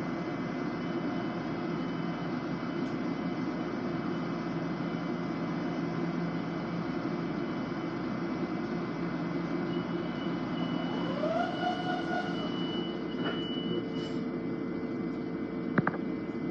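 Inside a Long Island Rail Road M7 electric train car running between stations: steady rumble of the car on the rails. About two-thirds of the way through, a whine rises, holds briefly and falls away, and a single sharp click comes near the end.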